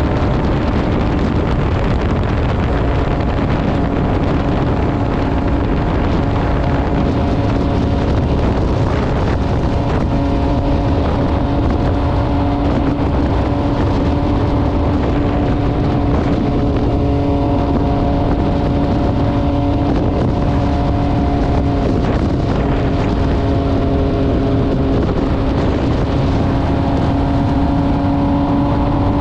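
MV Agusta Brutale 800RR's three-cylinder engine through an SC Project exhaust, running at a steady, nearly unchanging pitch while riding, with wind rushing over the microphone.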